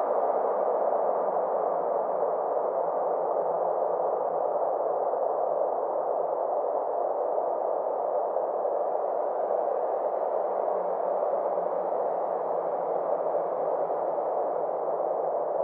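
Synthesized space-ambience drone: a steady hissing wash of sound centred in the middle range, with a slow rise and fall in brightness over several seconds.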